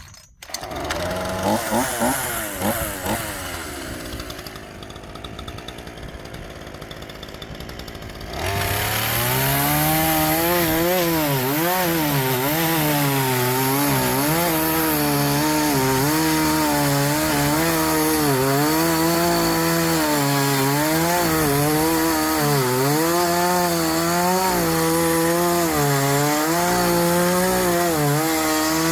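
A gas-engine saw cutting wood. It runs quietly for the first few seconds, then rises to a loud high-speed run about eight seconds in, and its pitch dips and recovers over and over as it works through the cut.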